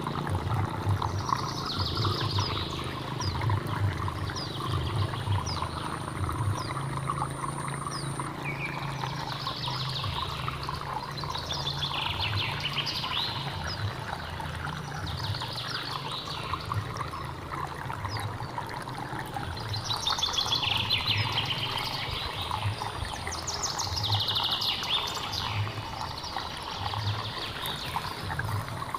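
Hill stream water running and burbling steadily, with birds chirping in quick repeated phrases over it every few seconds.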